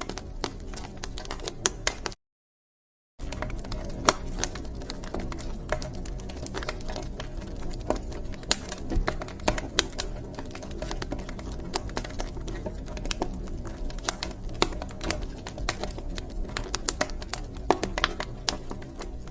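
Wood fire crackling in a fireplace: irregular sharp pops and snaps over a steady low rumble of the burning logs. The sound cuts out completely for about a second, about two seconds in.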